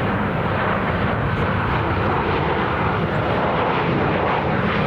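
Jet airliner's engines, a loud steady noise with no clear rise or fall.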